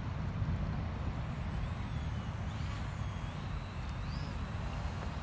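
Faint whine of a small electric RC flying boat's motor, rising and falling in pitch as the throttle changes, over a steady low rumble.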